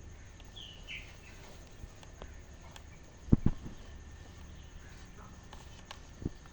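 A short, falling bird call about half a second in, over a low steady rumble of outdoor ambience. Two loud thumps in quick succession about halfway through and another near the end.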